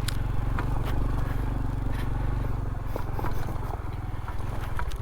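Honda CT125's small single-cylinder engine running at low speed under way, with scattered clicks and knocks over rough ground.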